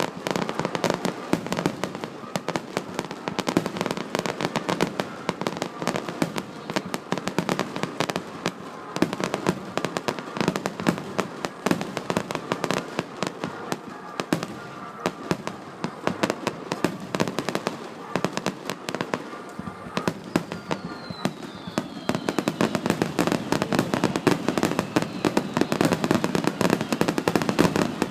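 Fireworks display: a rapid, continuous barrage of bangs and crackles that grows denser near the end, with a falling whistle about twenty seconds in.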